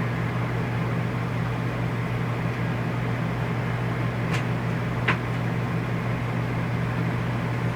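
RV rooftop air conditioner running, a steady hum of its fan and motor. Two sharp clicks about four and five seconds in.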